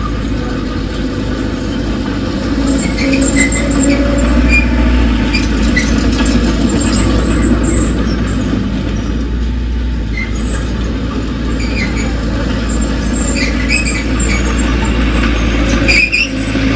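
Heavy diesel machinery, a bulldozer, running steadily with a deep continuous rumble. Short high-pitched squeals are scattered through it, with a louder one near the end.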